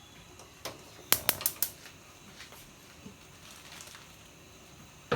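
A short run of sharp clicks and knocks from kitchenware being handled, about five in quick succession about a second in, then only low room tone.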